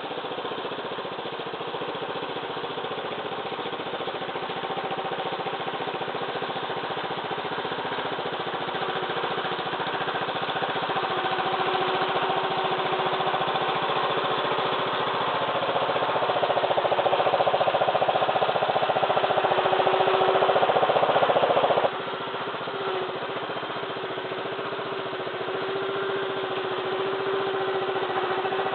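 Massey Ferguson 2635 tractor's diesel engine running steadily, growing louder over about twenty seconds, then dropping suddenly to a lower level about two-thirds of the way through.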